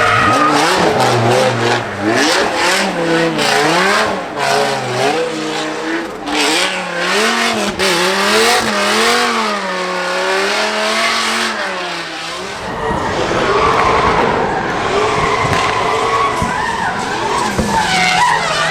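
Car engine revving up and down again and again with tyres squealing and skidding, as in a drift run. About twelve seconds in, the engine note gives way to a longer spell of tyre squeal and skid noise.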